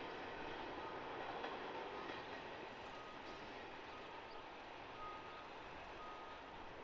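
A vehicle's back-up alarm beeping faintly, a short tone repeating about once a second from roughly three seconds in, over a steady rumble that slowly fades.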